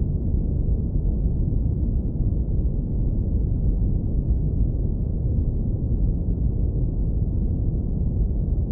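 Steady, deep rumbling brown noise, filtered so that almost nothing above the low bass remains, with no change in level.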